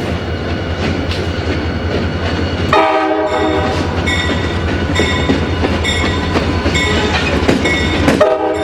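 A train passes with a steady low rumble. Its horn sounds briefly about three seconds in and again at the very end, and from about four seconds on a bell rings evenly, roughly once every 0.7 seconds.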